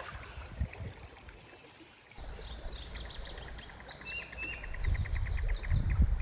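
Songbirds singing after a quiet start, with high chirps and glides and a fast trill of repeated notes. A low rumble rises under them near the end.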